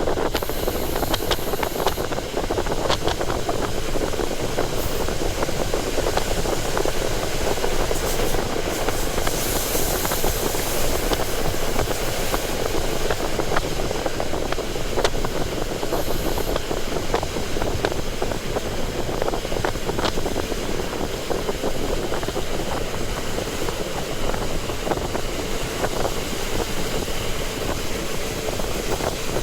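KiHa 40 diesel railcar under way, heard from on board: the diesel engine and the wheels on the rails make a steady running noise, with scattered short clicks and rattles throughout.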